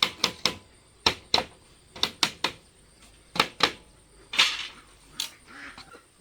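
A series of sharp knocks in quick pairs and threes, about a dozen in all, with a longer scraping rustle about four and a half seconds in.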